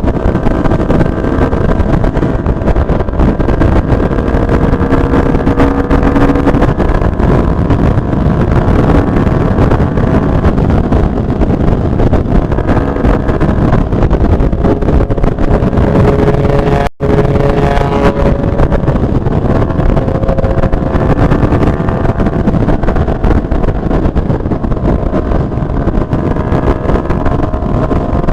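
Benelli TNT 600i inline-four motorcycle engine running steadily through an aftermarket Two Brothers exhaust canister, with small shifts in pitch and no big revs. The sound cuts out for an instant about 17 seconds in.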